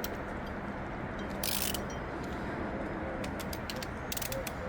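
Ratchet wrench clicking and metal tools clinking on the engine's head bolts, with irregular sharp clicks that bunch together near the end and a short hiss about a second and a half in.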